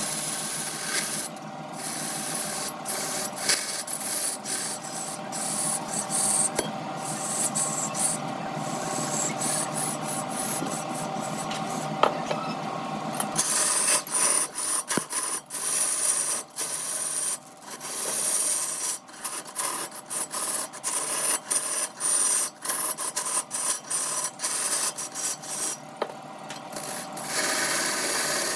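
Turning tool scraping and cutting wood on a spinning wood lathe, with a steady hum under it for the first half. About halfway through the scraping turns choppy, starting and stopping in quick strokes.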